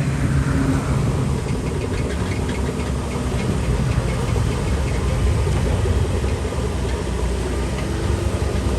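Heavy diesel engine of earthmoving machinery running steadily, its pitch dropping a little in the first second, with faint light clicks over it.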